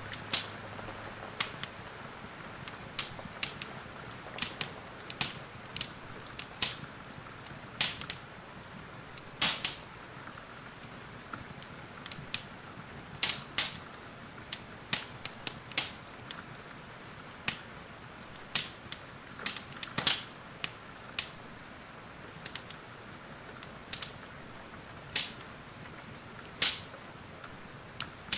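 Wood fire crackling in a fireplace, with sharp, irregular pops about one or two a second, over a steady hiss of rain.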